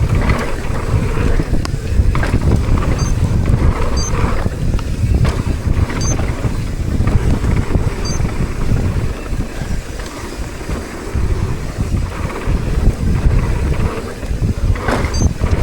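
Wind buffeting the microphone and the steady rumble of a downhill mountain bike rolling fast over a rough dirt trail, with a few sharp knocks as it hits bumps.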